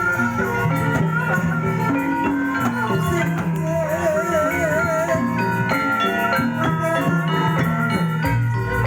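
Javanese gamelan music accompanying an ebeg hobby-horse dance, with struck metallophone notes and percussion throughout and a wavering melody line entering about halfway through.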